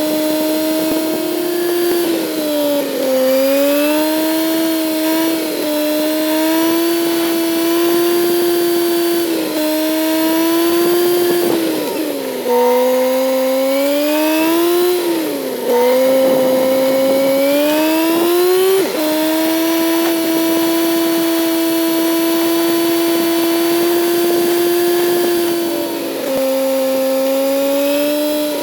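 Kawasaki Z900's inline-four engine running under way. Its steady note dips and climbs in pitch several times, with sudden steps between stretches of even running, as the throttle and gears change.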